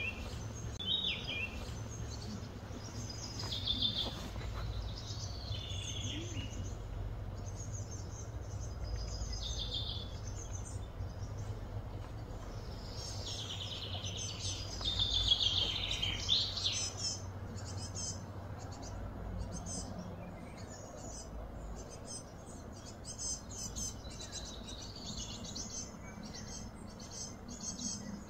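Several birds chirping and singing in short repeated phrases, some with quick falling sweeps, busiest around the middle, over a steady low background hum.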